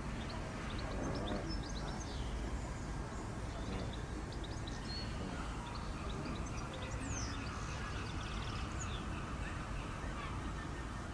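Background hum with faint murmur of visitors' voices and scattered short, high bird chirps.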